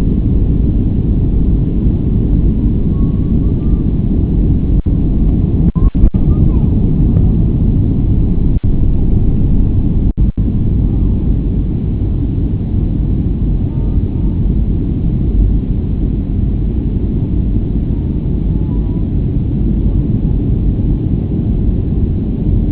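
Steady low rumble of an airliner's jet engines and airflow, heard from inside the passenger cabin during the climb after takeoff. It is interrupted by a few very short dropouts.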